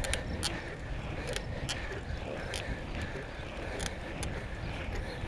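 Wind rumbling on the microphone of a camera carried on a moving bicycle, with scattered sharp clicks and rattles every second or so.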